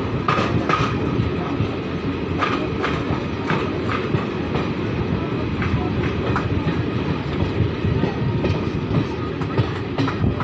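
Passenger train running, heard from an open coach doorway: a steady rumble of wheels on the rails, with irregular clicks of the wheels passing over track joints, more of them in the first half.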